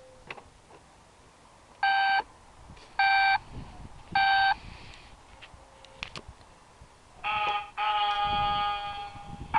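Battery-powered toy vehicle's electronic sound effect: three short, identical beeps a little over a second apart, then a buzzier electronic tone and a longer held tone near the end, with a few light plastic clicks in between.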